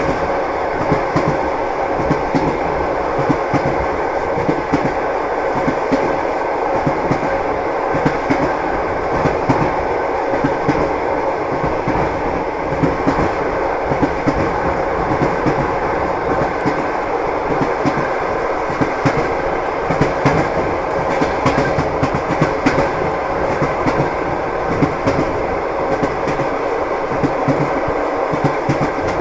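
Train running along the track, its wheels clacking over the rail joints against a steady rumble, with many rapid clicks throughout.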